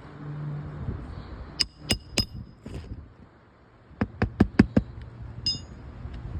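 Hammer driving roofing nails through an asphalt shingle, the strikes ringing off the nail heads. There are three blows, then a quick run of about five, then one more.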